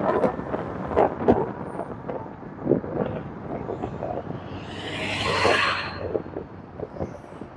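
Wind gusting over the microphone with the road noise of a Wolf King GTR electric scooter riding along, broken by irregular thumps. About five seconds in, a hiss rises and falls.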